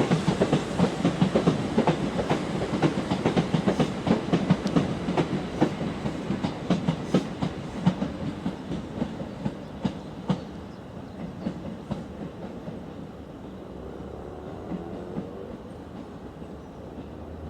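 Southern passenger train pulling out of the station, its wheels clattering over the rail joints in a quick run of clicks that thins out and fades as the train moves away.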